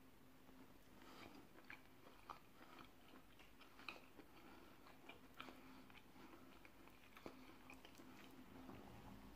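Faint chewing of a forkful of food dipped in garlic sauce, with soft wet mouth clicks scattered through, over a faint steady low hum.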